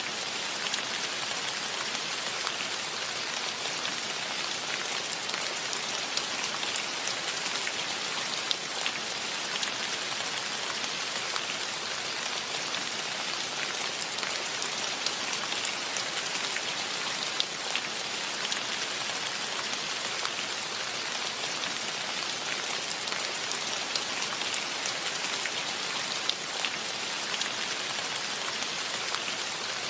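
Steady rain falling, an even hiss with many individual drops pattering and ticking on surfaces.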